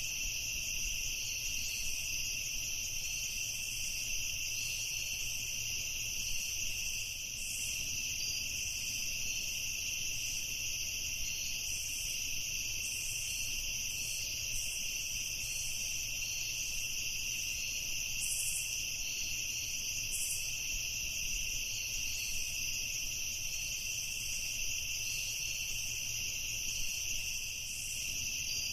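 Night insect chorus: crickets trilling in a steady, unbroken high-pitched drone.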